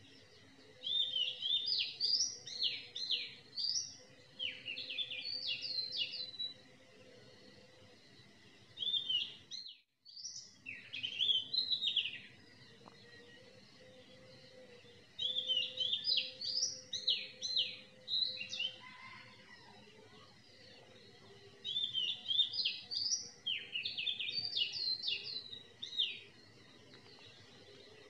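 A songbird singing in four bouts of quick, high chirping notes, each a few seconds long, with pauses between them.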